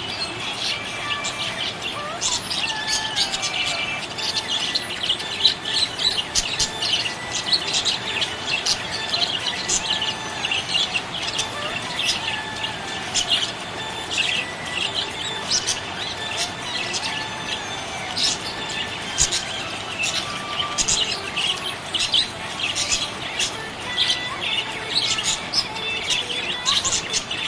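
Budgerigars chirping and warbling: a dense, continuous stream of short high chirps and trills, mixed with a few gliding notes.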